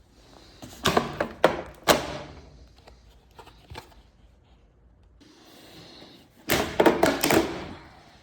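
Hard objects knocking and clattering in two quick clusters of sharp knocks, about a second in and again about six and a half seconds in, with a softer rustle between.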